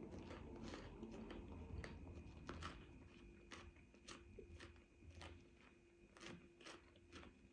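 Someone chewing food close to the microphone, with soft, irregular crunches.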